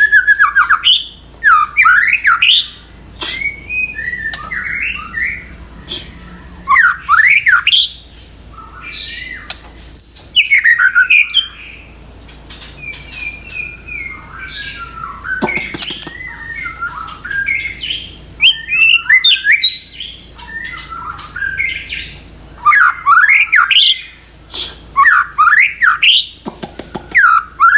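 A songbird singing in loud phrases of rapid, varied notes that repeat every few seconds, with quieter chirps between them.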